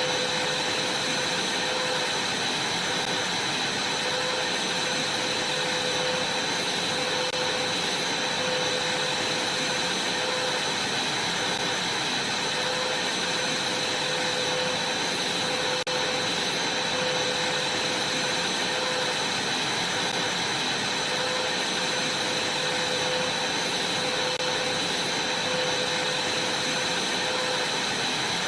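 Vacuum cleaner running steadily, a high whine over the rush of its airflow.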